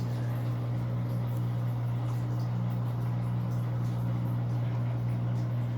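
Electrolux LAC13 13 kg top-load washing machine running with a steady low hum.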